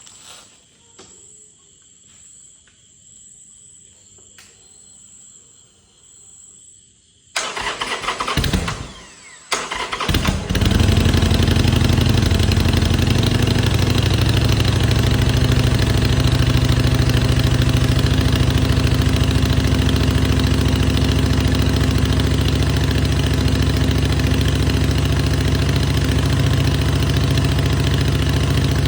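Harley-Davidson V-twin motorcycle engine cold started. About seven seconds in the starter cranks for roughly two seconds. The engine catches about ten seconds in and settles into a loud, steady idle.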